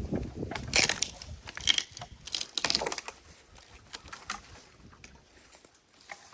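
Irregular wooden knocks, cracks and scraping from handling freshly sawn wood, busiest in the first three seconds and then thinning to a few light ticks.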